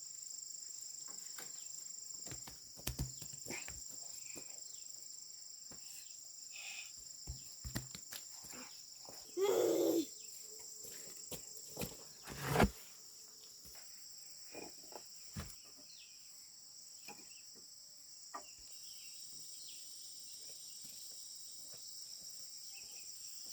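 Steady high-pitched insect chorus, with scattered light knocks and taps, a brief call about ten seconds in, and a sharper knock a couple of seconds later.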